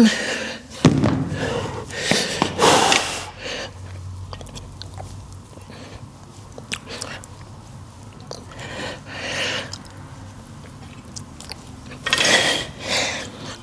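A man's heavy, forceful breathing during a set of shoulder exercises: a few sharp, noisy exhalations near the start, another pair near the end, and light clicks in between.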